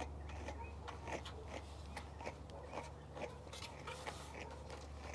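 A brush raked in short, quick strokes through a bichon's curly coat, making a series of brief scratchy rasps over a low steady hum.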